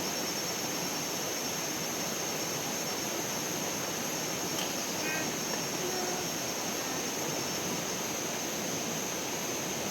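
Steady outdoor rushing noise with a constant high-pitched buzz on top, and a few faint short chirps about halfway through.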